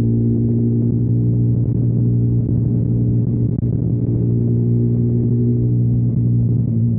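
2021 KTM Duke 125's single-cylinder four-stroke engine breathing through a Storm GP aftermarket exhaust, holding steady revs with an unchanging pitch.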